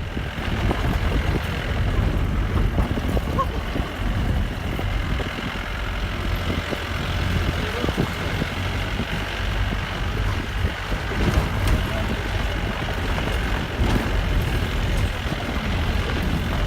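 Vehicle driving on a rough, broken road: a steady low rumble of engine and road noise with occasional small knocks.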